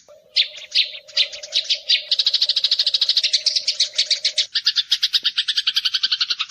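Eurasian tree sparrows chattering in a rapid, continuous run of sharp chirps, many to the second. A low steady hum runs underneath and stops about two-thirds of the way through.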